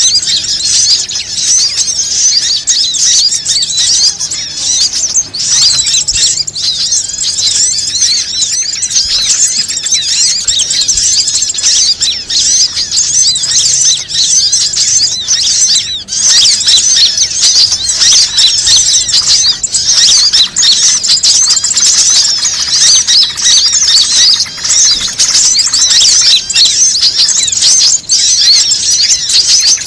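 Bird-lure recording: a dense, continuous chorus of many small birds chirping rapidly at high pitch, played to attract wild birds.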